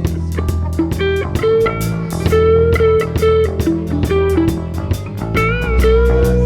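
Instrumental rock passage: an electric guitar plays a lead melody with bent, sliding notes over bass guitar and a steady drum beat.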